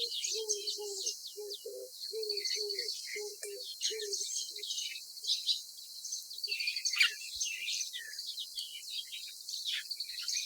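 Many small birds chirping and twittering. For the first four seconds or so a low note is also repeated a few times a second.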